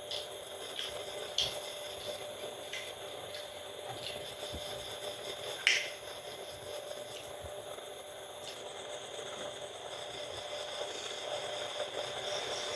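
Mukbang eating sounds: scattered short, sharp mouth clicks and smacks, the two loudest about a second and a half in and just before six seconds, over a steady faint hum.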